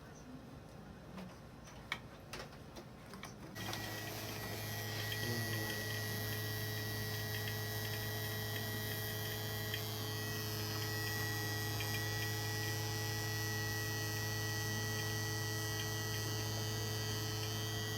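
An electrically powered machine switches on about three and a half seconds in and runs with a steady, even hum and a thin high whine, after a few faint clicks.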